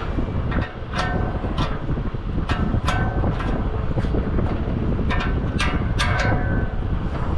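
Sharp metallic clinks, about ten of them, some ringing briefly, from hardware and tools being handled while the condenser fan motor is taken out. A steady low rumble sits under them.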